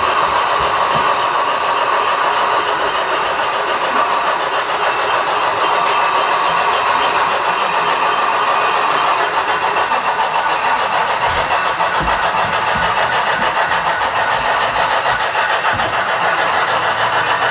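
HO-scale model steam train running on the layout: the Big Boy and Challenger locomotives with a long freight train make a steady mechanical running noise, with a single sharp click about eleven seconds in.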